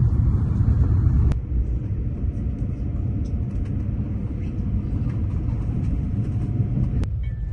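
Low, steady rumble inside a high-speed bullet train's carriage as the train pulls out of the station and moves off, with an abrupt change in the sound about a second in and again near the end.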